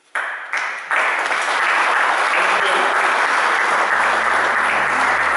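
Audience clapping and applauding. A low held musical tone enters under the applause about four seconds in.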